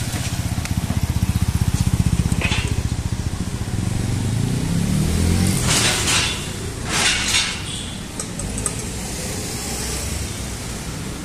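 Road traffic: a vehicle engine running close by for the first few seconds, then two short hissing rushes about six and seven seconds in.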